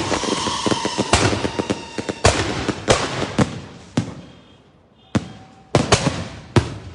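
Cart-mounted fireworks going off at close range. A dense crackling rush dies away over the first two seconds, then comes a string of loud single bangs, about eight of them at uneven gaps.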